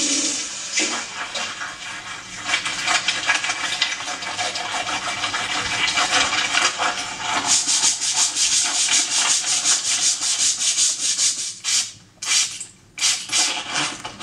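Rapid scrubbing strokes on a surface, several a second, broken by a few short pauses near the end.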